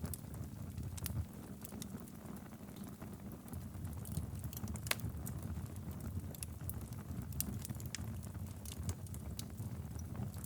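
Wood fire burning steadily in a fireplace: a low, constant rumble of flame with irregular sharp crackles and pops scattered throughout, one louder pop about five seconds in.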